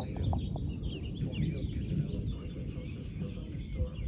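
Small birds chirping repeatedly over a steady low rumbling noise.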